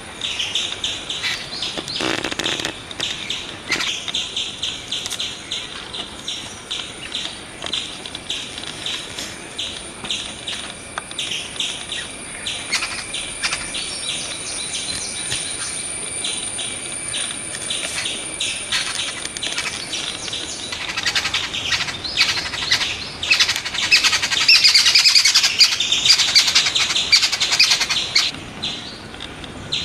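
Birds chirping and twittering in quick, dense runs, growing busier and louder about three-quarters of the way through. A steady thin high whine sounds under them and stops about two-thirds of the way in.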